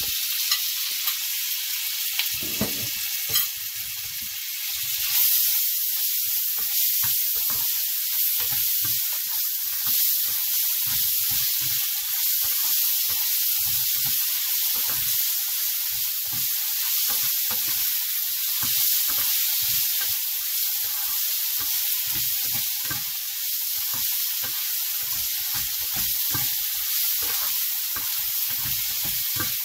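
Lobster pieces with chopped onion and tomato sizzling in hot oil in a nonstick frying pan, while a spatula stirs and scrapes through them in short, irregular strokes. A few clicks come near the start, and the sizzle grows louder about five seconds in.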